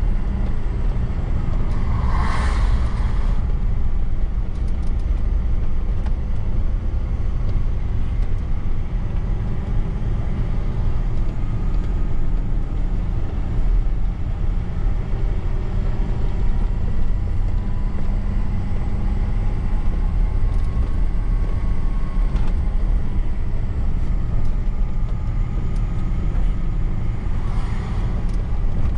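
Truck engine running and road noise while driving: a steady low rumble, with a short burst of hiss about two seconds in and another near the end.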